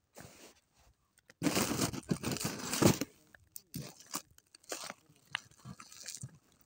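Dry kindling being torn, crumpled and broken by hand: a loud rustling crunch for about a second and a half, then scattered sharp snaps and crackles.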